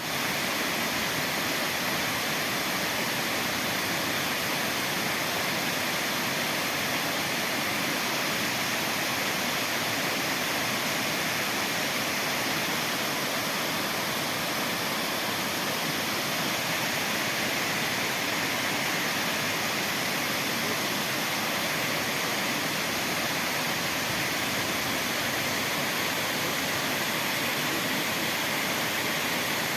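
Waterfall rushing with a steady, unbroken noise of falling water.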